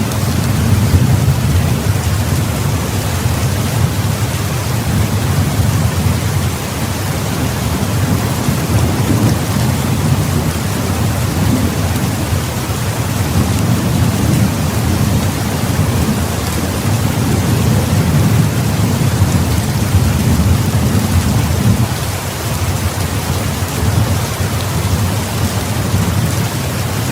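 Heavy rain falling steadily, with a deep rumble underneath that swells and eases.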